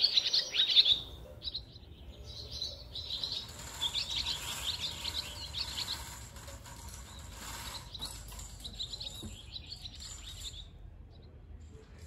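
Small birds chirping and twittering in quick runs of high notes, loudest in the first second and dying away shortly before the end, over a faint low rumble.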